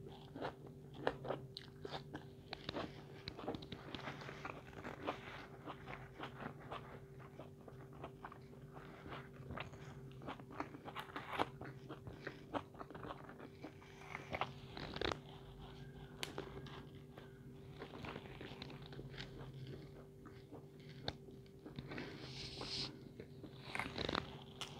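Close-miked chewing and biting of pizza crust: irregular crunchy clicks of mouth sounds. A steady low hum runs underneath.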